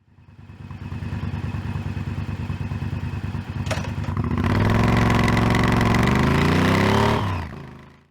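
Motorcycle engine running at a steady pulsing idle, with a sharp click a little under four seconds in, then revving up with a rising pitch for a few seconds before fading out.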